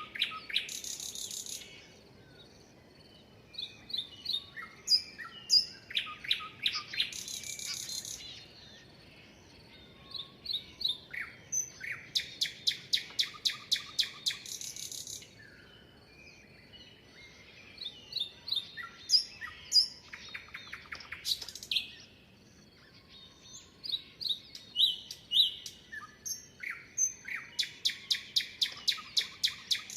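Songbird singing: about five phrases, each of varied chirps and whistles running into a fast, even trill of about ten notes a second, with short pauses between phrases.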